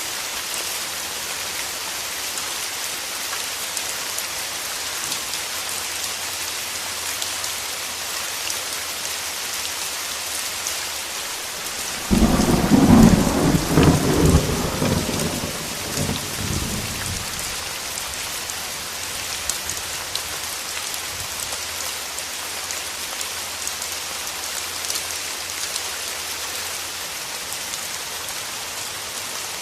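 Steady rain falling, with a single clap of thunder that breaks in suddenly about twelve seconds in and rumbles away over the next five seconds.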